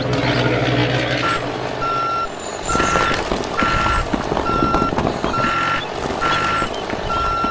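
Truck reversing alarm beeping at a steady pitch, about once a second, over the rumble of a running vehicle. A low engine hum is heard before the beeping starts about a second in.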